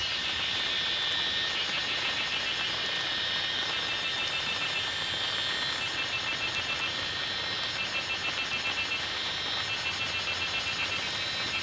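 A dense, high-pitched chorus of insects buzzing steadily, with a fast, even pulsing that swells and eases a little.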